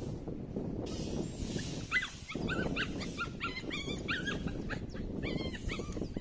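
A dog whining in a quick run of short, high whines, over a steady low rumble.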